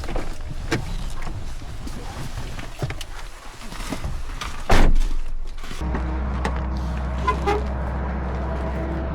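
Car sounds: scattered clicks and a loud thump about halfway through, then a steady low hum that starts suddenly and holds.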